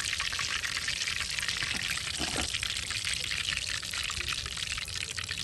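Chicken drumsticks frying in hot oil: a steady sizzle with fine crackling.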